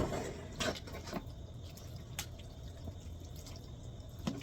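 Pasta in a cheesy sauce simmering in a pan on the stove, with a few scattered light pops and clicks over a low steady bubbling.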